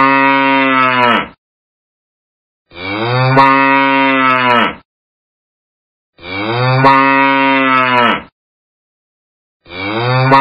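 A cow mooing: the same long, low moo of about two seconds, repeated identically roughly every three and a half seconds with dead silence in between.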